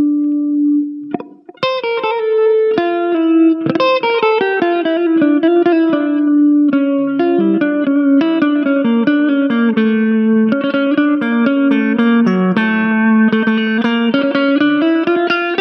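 Electric guitar playing a single-note melodic lead through an amplifier with effects: a held note dies away, a short pause about a second in, then a running melody of plucked notes.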